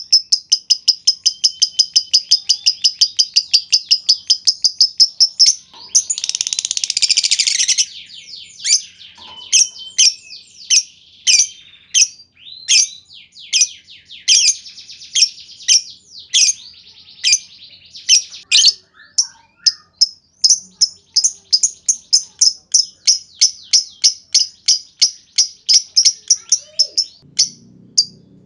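Lovebird giving the rapid 'ngetik' (typing) call: a fast, even run of sharp high chirps, broken about six seconds in by a harsh two-second burst of chatter, then spaced chirps that quicken again toward the end. This is the lure call meant to set other lovebirds off into long trilling.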